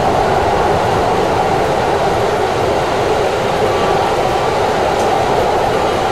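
Keikyu electric commuter train running at speed, heard from the driver's cab: a steady running noise of wheels on rail and motors, with no breaks.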